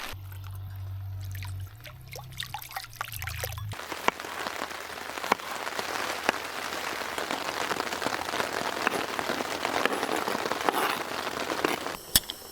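Rain falling steadily, many drops pattering and ticking on a hard surface. For the first few seconds a low steady hum with a few clicks takes its place before the rain comes in.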